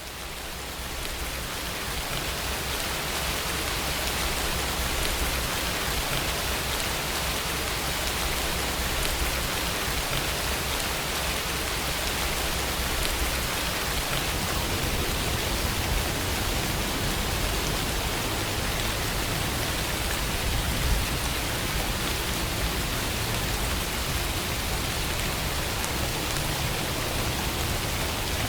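Steady rainfall, a dense even hiss of drops. It fades up in the first second or two, then holds level.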